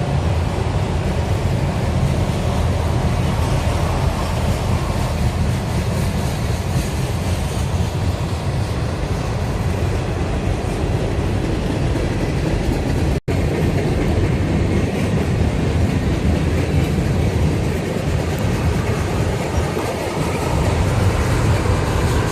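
A Norfolk Southern freight train rolling past, its cars rumbling and clattering steadily on the rails. The sound cuts out sharply for an instant about thirteen seconds in, then carries on.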